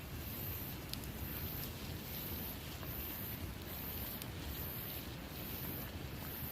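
A high-pitched insect chirping in short, even pulses, a little more than one a second, over a steady hiss of rain, with a few faint clicks.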